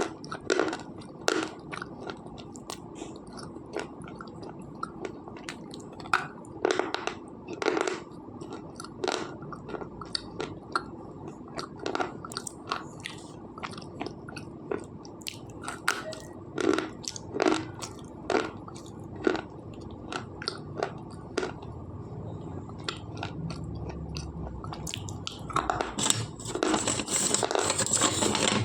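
Close-miked chewing of slate pencils: sharp, irregular crunches as the hard chalky sticks are bitten and ground between the teeth, with a louder, denser run of crunching near the end.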